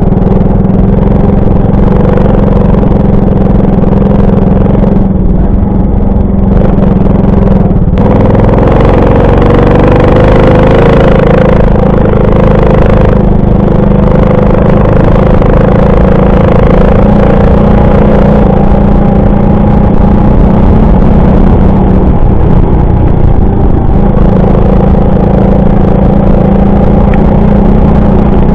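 Alpha 110 moped's small single-cylinder four-stroke engine running under way, a steady drone. Its pitch dips about eight seconds in and climbs again, then wavers once more around twenty-two seconds in.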